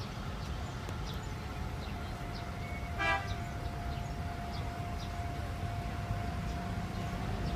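Car engine idling with a steady low rumble. A steady high-pitched tone comes in about two seconds in and holds, and a brief toot sounds about three seconds in.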